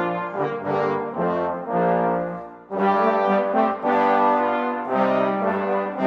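Brass ensemble playing a slow piece in sustained chords, several instruments holding notes together. One phrase dies away about two and a half seconds in, and the next comes in at full strength.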